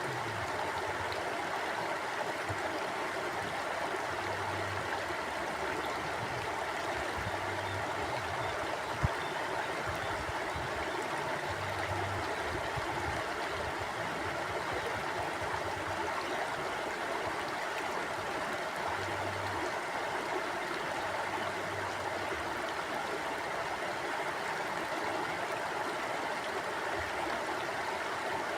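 Forest mountain stream flowing steadily: an even, continuous sound of moving water. There is one sharp click about nine seconds in.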